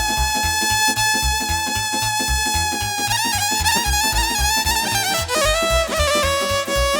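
Romanian party folk music (muzică de petrecere) played live, an instrumental break with no singing: a lead melody instrument holds one long note for about three seconds, then plays quick ornamented runs over a steady bass beat.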